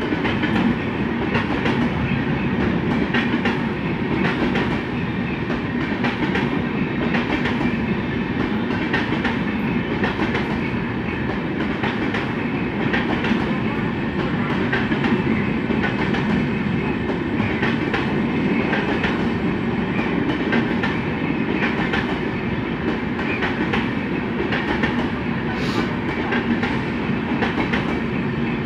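A passenger train of LHB coaches rolling steadily past at moderate speed: a continuous rumble with the clickety-clack of wheels over rail joints.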